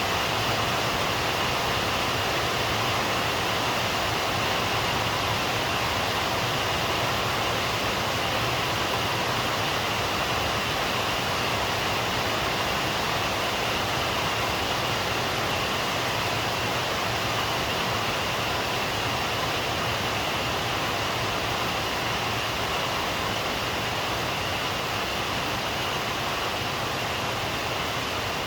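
Steady rain falling, an even hiss with no thunder or changes.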